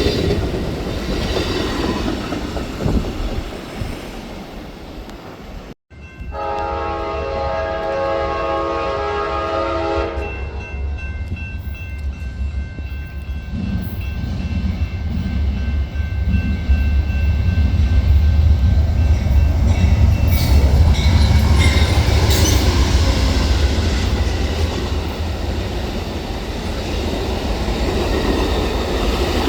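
Train rolling past, then after a short break a train horn sounds a held chord for about four seconds. After the horn, a locomotive's heavy low rumble builds up and is loudest as it passes, with a faint steady high tone alongside.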